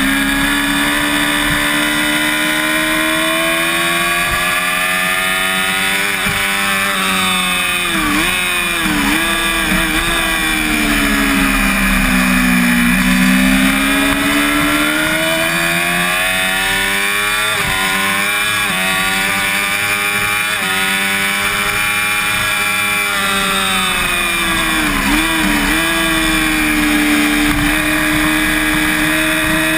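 First-generation Yamaha YZF-R6 (5EB) inline-four engine under race load, its revs climbing and falling. There are quick dips in pitch at the gear changes, about eight seconds in and again near 25 s, and a long fall in revs before it pulls up again, all over a steady rush of wind.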